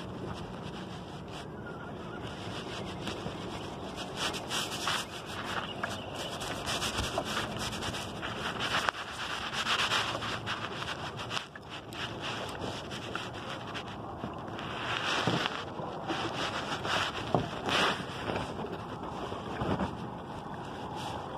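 Wind buffeting the microphone over water lapping against a kayak, with scattered short knocks and rubbing from handling gear in the boat.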